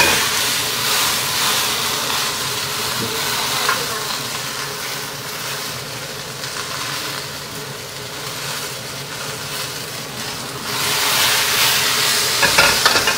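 Cut French beans sizzling in hot oil in a wok, being stirred and turned with a metal wok ladle. The sizzle eases in the middle and grows louder again about ten seconds in.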